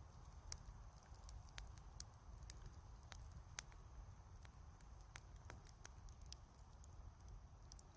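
Wood bonfire crackling faintly, with irregular sharp pops and snaps, about a dozen, over a low steady rumble.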